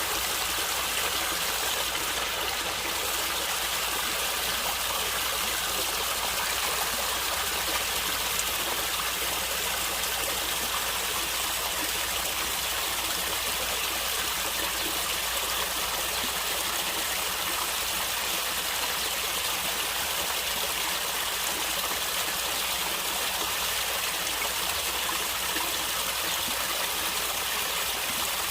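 Natural stream water flowing and gurgling, a steady, even rush with no breaks.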